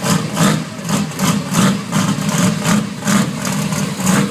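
Car engine running at idle, with an uneven pulse about two to three times a second.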